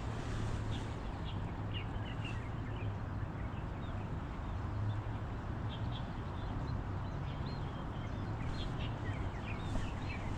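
Birds chirping in short, scattered calls over a steady low hum and background noise.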